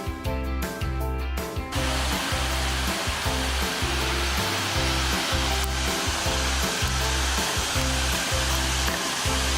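Background music with steady repeated bass notes. About two seconds in, a steady, even rushing noise of falling water from a waterfall comes in and runs under the music.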